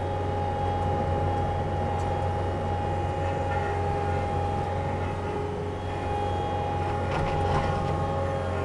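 Diesel engine of a tree-clearing machine running steadily under load, with a steady whine above the low engine drone. A few faint cracks come near the end.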